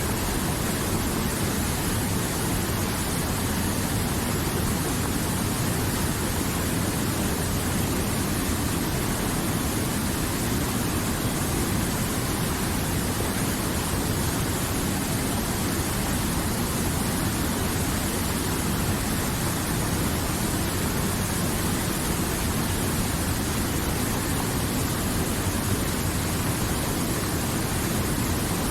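River water flowing, a steady even rush with no change in level.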